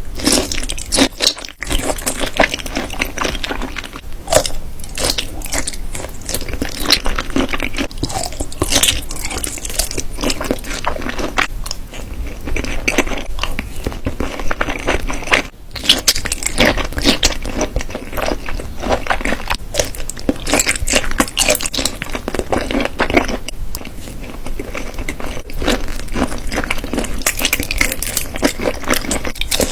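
Close-miked ASMR eating of soy-marinated raw shrimp and salmon roe over rice: continuous wet chewing, biting and mouth smacks, with brief pauses about a second and a half in and around the middle.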